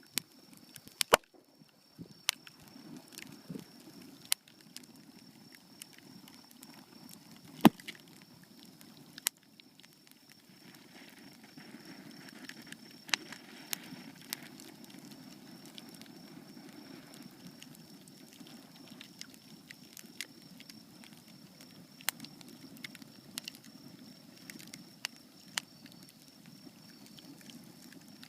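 Wood bonfire crackling, with irregular sharp pops and snaps, the loudest about eight seconds in, over a steady low rushing noise.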